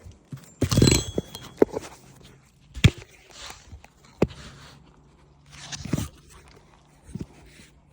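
Irregular knocks, crunches and scrapes from hands-on work on brittle asphalt roof shingles, the loudest crunch about a second in and sharp knocks after.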